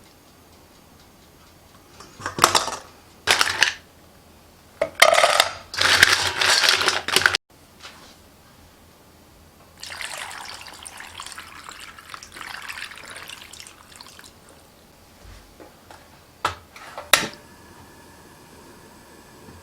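Kitchen prep sounds: several loud splashing or scrubbing bursts, then a few seconds of running or pouring water, and near the end a couple of sharp knocks of shells or utensils.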